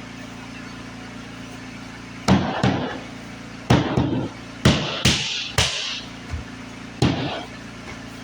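Hammer knocks while installing flooring: about eight sharp blows, singly and in quick pairs, starting about two seconds in, each with a short ringing tail.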